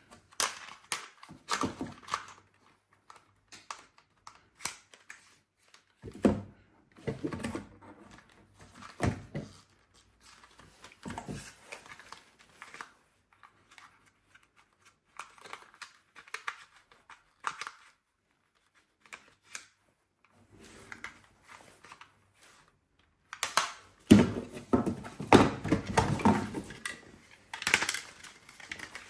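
Hands handling toys and packaging: scattered clicks, light knocks and rustling, busiest and loudest in the last few seconds.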